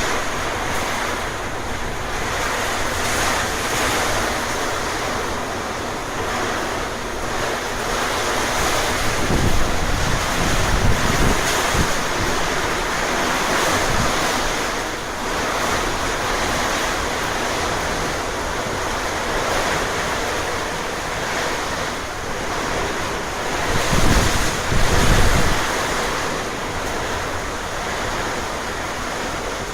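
Storm wind in a steady rushing noise, with gusts buffeting the microphone in low rumbles, the strongest late on.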